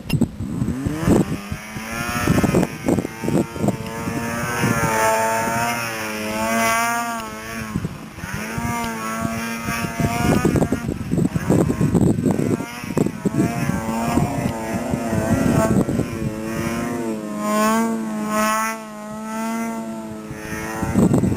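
Snowmobile engine running, its pitch swinging up and down again and again as the throttle is worked, with gusts of wind rumbling on the microphone.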